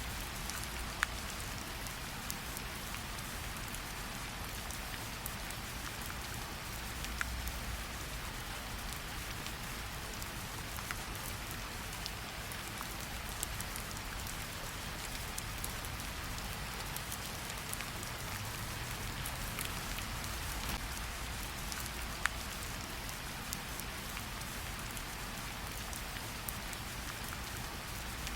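Steady light rain falling on tree leaves, an even hiss with scattered individual drops ticking sharply over it.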